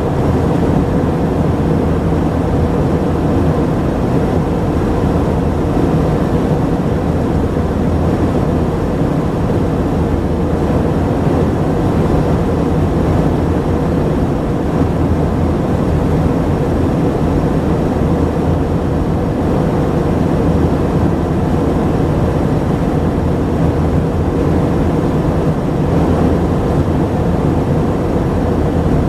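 Airbus A319-132's IAE V2500 turbofans and rushing airflow heard from inside the passenger cabin: a loud, steady drone with a low, even hum, as the airliner climbs out after takeoff.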